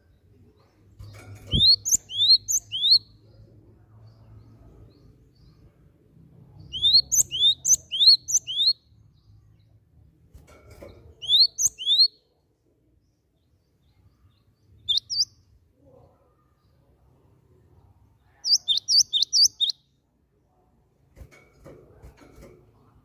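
Cinereous tit (gelatik batu) singing: phrases of three to six quick, high whistled notes, each sweeping downward, separated by pauses of a few seconds, with a faster run of notes near the end.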